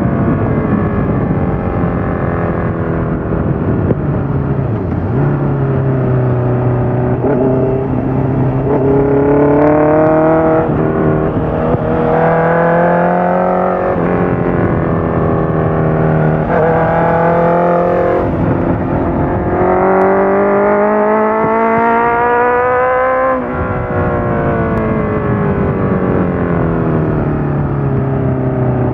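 Honda CBR650F inline-four engine through a full Akrapovic exhaust with the dB killer fitted, pulling hard under acceleration: the pitch climbs with revs and drops sharply at each upshift, several times over. It winds down at the start and again near the end as the throttle is closed.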